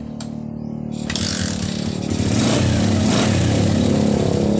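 Bajaj CT100's single-cylinder four-stroke engine running after an overhaul, growing louder about a second in and again about two seconds in, then holding steady.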